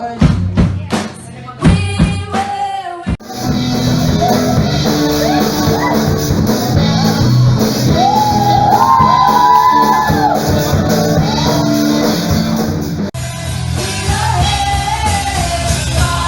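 Live band music: a few seconds of sharp drum hits, then singing over the full band. The sound changes abruptly about three seconds in and again near the end, as if cut between songs.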